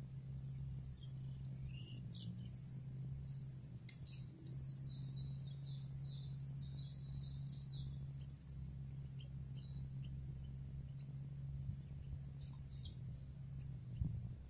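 Small birds chirping in quick runs of short, falling notes, busiest from about a second in to about nine seconds in, then only a few scattered chirps, over a steady low hum.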